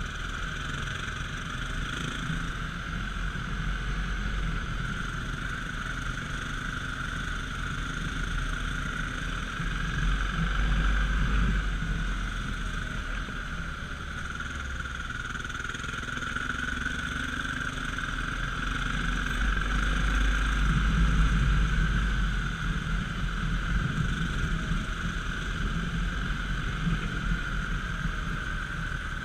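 Dirt bike engine running while the bike is ridden, with a steady rumble that swells for a couple of seconds twice, about ten and twenty seconds in.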